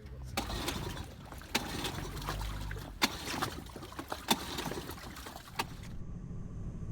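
Water splashing and sloshing around a small boat, with several sharp knocks and clacks. About six seconds in it cuts suddenly to a steady low hum.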